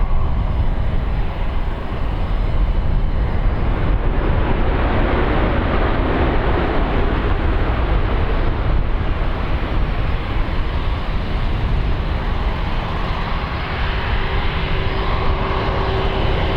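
Jet airliner engines running at high power, a loud steady rumble. A faint whine comes in near the end.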